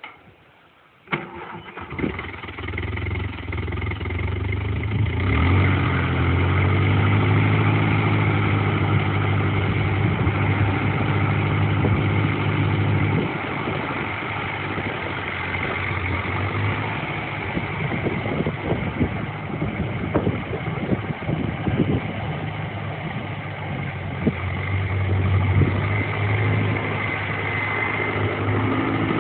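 1950 Case VAC tractor's four-cylinder gas engine starting about a second in, then running steadily, its note changing a few times.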